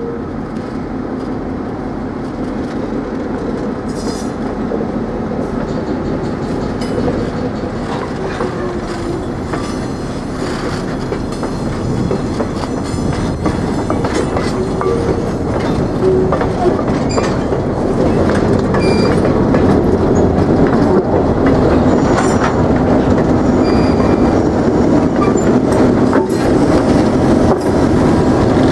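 EMD GP7 diesel locomotive pulling cabooses past, with the engine running and the wheels clacking over the rail joints, growing steadily louder as the train comes closer.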